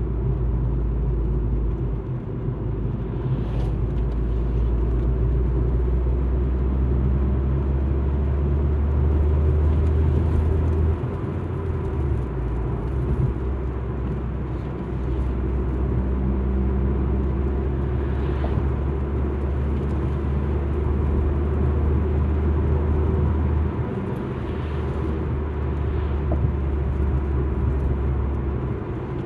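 Alfa Romeo MiTo driving: a steady low engine and road drone with tyre noise. The drone eases off briefly twice, about eleven seconds in and again near the end, as with a lift of the throttle or a gear change.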